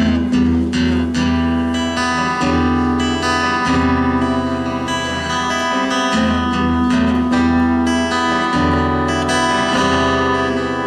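Acoustic guitar playing the introduction to a song, sustained chords that change every second or two over a steady bass.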